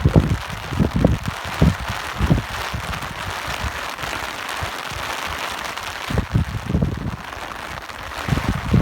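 Steady hiss of falling rain with gusting wind, the gusts coming as irregular low bumps that bunch in the first two seconds and again from about six seconds in, with a calmer stretch between.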